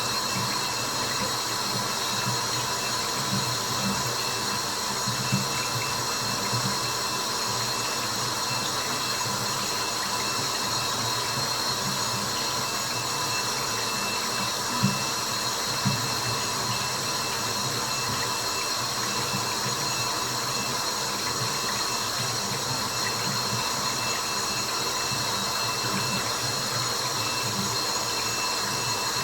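Steady hiss of white noise with water dripping in it: a constant rushing haze with scattered small drops and a few louder single drips, about five seconds in and twice around the fifteen-second mark.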